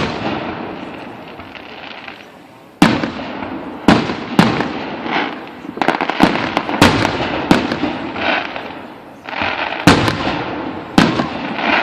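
Fireworks display: aerial shells bursting in a fast series of sharp bangs that begins about three seconds in, with crackling and echo trailing after each burst.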